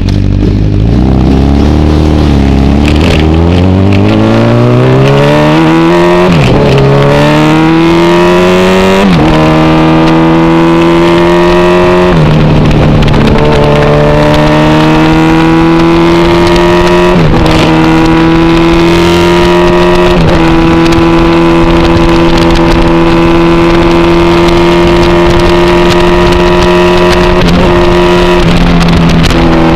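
Motorcycle engine accelerating through the gears. The pitch climbs and drops back sharply at each of about five upshifts over the first twenty seconds, then holds steady at a cruise.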